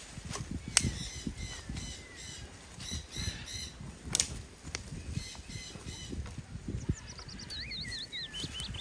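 Wild birds calling in forest, with a quick series of whistled notes sliding up and down near the end, over irregular low knocks and thumps and a couple of sharp clicks.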